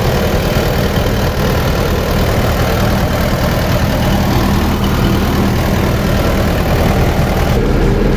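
Komatsu PC60-8 hydraulic excavator's diesel engine running steadily at idle.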